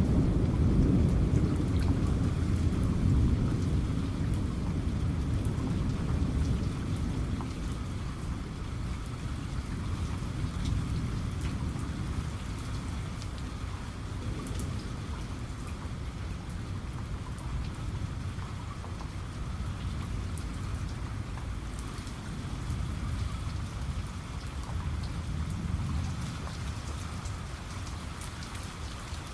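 Steady rain falling on a surface, with a low rolling rumble of thunder at the start that fades away over the first several seconds.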